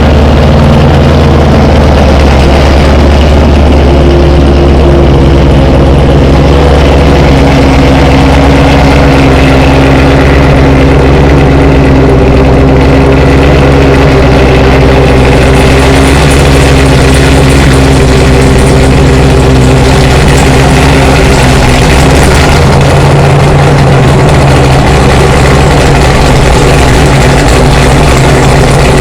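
A 2019 C7 Corvette's V8 idling steadily and loudly just after a cold start, holding a fast warm-up idle with a slight shift in pitch about twenty seconds in.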